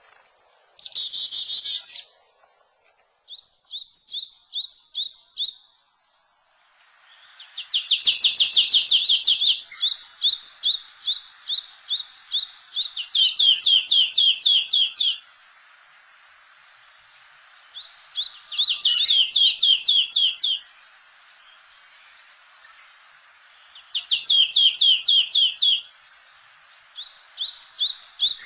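A small songbird singing: repeated bouts of rapid, evenly spaced high trilled notes, each bout lasting a couple of seconds, with a few seconds' pause between bouts.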